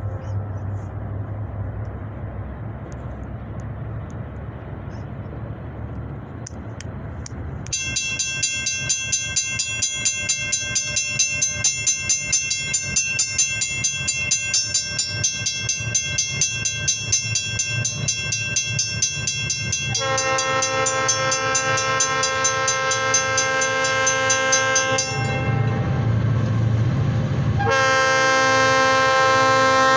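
De Queen & Eastern GP40-2 diesel locomotives approaching, first as a low diesel engine rumble. Then a multi-note air horn blows long, pulsing, with its chord shifting partway through. The horn breaks off under the engine rumble for a couple of seconds and sounds again near the end.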